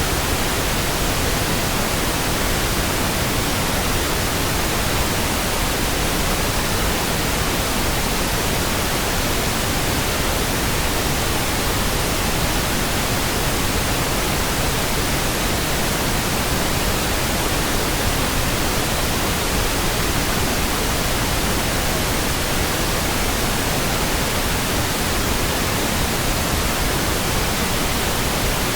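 Steady pink noise: an even, unchanging hiss spread across all pitches, with no other sounds.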